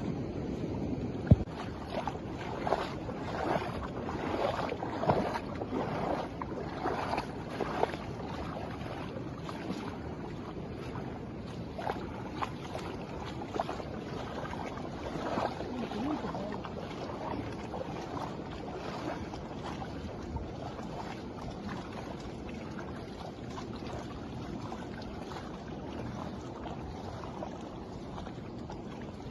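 Storm wind and water making a steady rushing noise, with wind rumbling on the microphone and scattered knocks and splashes, most of them in the first half.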